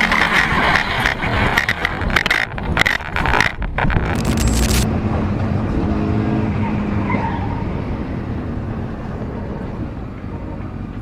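Motorcycle going down on a track after hard braking: loud scraping and skidding with a run of knocks for about the first five seconds. After that an engine runs on more quietly and slowly fades.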